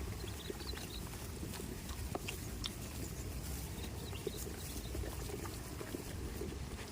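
Goats moving and snuffling close by: scattered short clicks and knocks over a steady low rumble, with no bleating.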